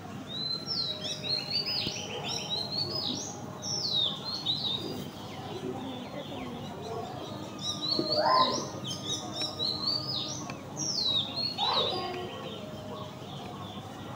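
Several small birds chirping and twittering, with many short high falling notes and quick trills. About eight seconds in, and again near twelve seconds, a louder, lower call sweeps down in pitch.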